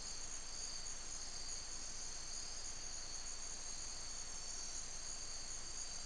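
Steady chorus of rainforest insects: several high trills at different pitches, running together without a break.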